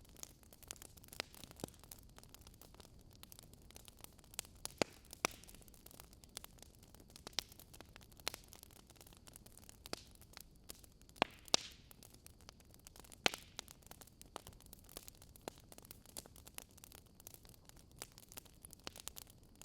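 Wood campfire burning, with soft irregular crackles and pops over a low hiss; a few louder pops stand out.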